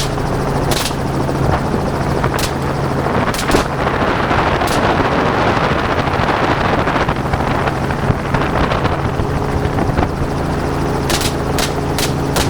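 Helicopter running steadily, with about eight gunshots from the hunters aboard: several scattered shots in the first five seconds, a pause of about six seconds, then three quick shots near the end.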